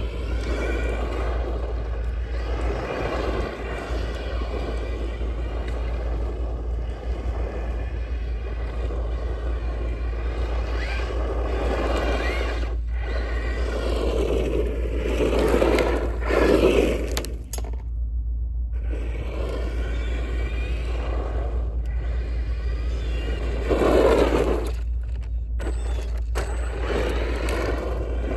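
Electric RC car driving: its motor whines, rising and falling in pitch with the throttle, over the scrape of its tyres on the ground. It cuts out briefly twice, the first time about two-thirds of the way through.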